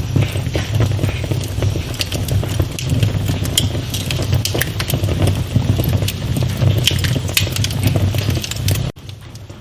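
Wood fire in a fireplace crackling with frequent sharp pops over a low rumble of flames. Near the end the sound drops abruptly to a much quieter crackle.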